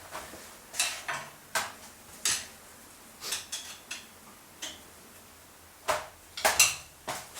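Scattered sharp metal clicks and clinks, about a dozen at irregular intervals, from hand work on a milling machine's table and gib adjustment. The loudest cluster comes near the end.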